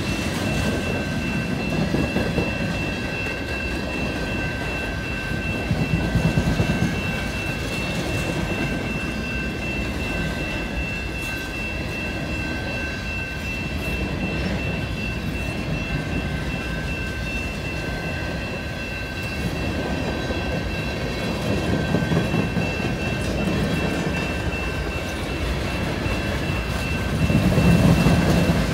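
Freight cars rolling past at a grade crossing: a steady rumble and rattle of steel wheels on the rails, swelling louder about six seconds in and again near the end. A steady high tone rings over the rumble.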